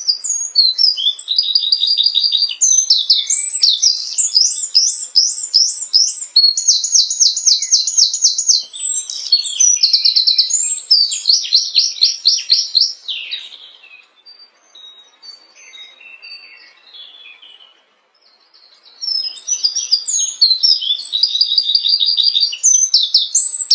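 A bird singing a varied, high-pitched song made of phrases of rapidly repeated notes and quick trills. Past the middle it thins to a few faint scattered notes for several seconds, then the full song resumes near the end.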